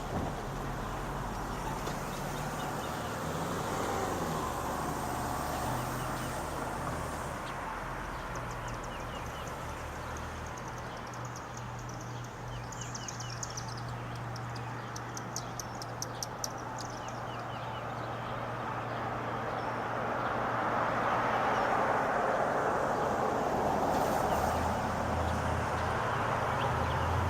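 Street traffic ambience: cars passing with a steady road hum that swells louder toward the end, and a small bird chirping in quick rapid runs in the middle.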